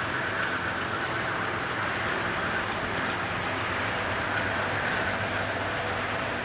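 Commuter train running, a steady mix of engine and wheel-on-rail noise.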